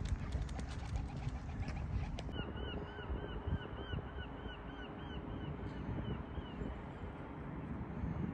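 A bird calling in a quick series of short, arched notes, about three a second, for roughly four seconds starting a couple of seconds in, over a steady low outdoor rumble.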